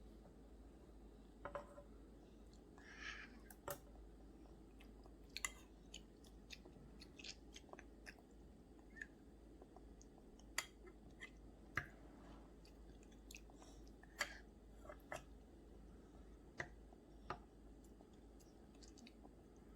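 A small child chewing food: faint, scattered mouth clicks and smacks every second or so.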